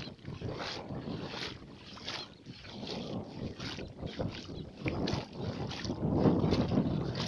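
Someone wading through shallow fish-pond water, each stride sloshing in an even rhythm of about three steps every two seconds, with wind buffeting the microphone.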